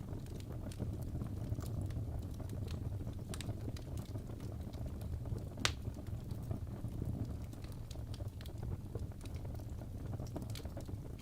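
Wood logs burning in a fireplace: a steady low rumble of flame with irregular crackles and pops, one sharper pop a little past the middle.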